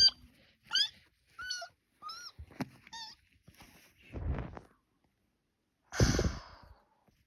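Kitten mewing: about six short, high mews rising and falling in pitch in the first three seconds. Then two short noisy bursts about four and six seconds in, the second the loudest.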